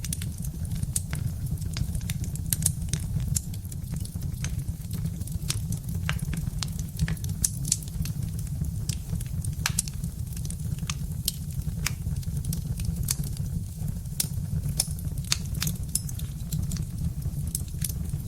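Birch-wood fire crackling, with frequent sharp irregular pops over a steady low rumble.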